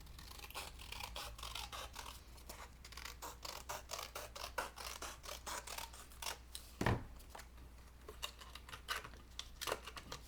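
Scissors snipping through paper in a run of short, quick cuts, trimming a traced shape. A single dull thump comes about seven seconds in.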